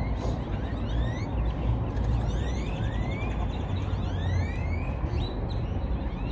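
Birds calling with many quick rising chirps, several overlapping, over a steady low rumble.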